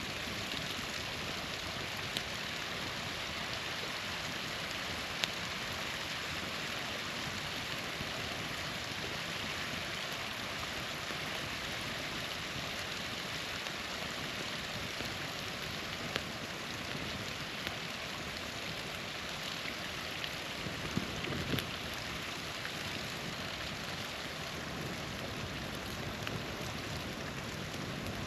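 Steady rush of a small waterfall, with the occasional sharp pop of a wood campfire crackling, several pops close together about three quarters of the way through.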